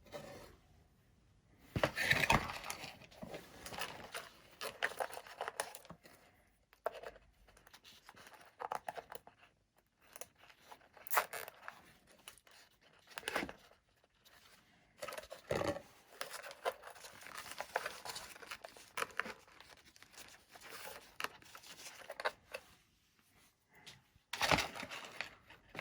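Hands working on the wiring of a foam RC plane: irregular rustling, scraping and sharp clicks in short bursts.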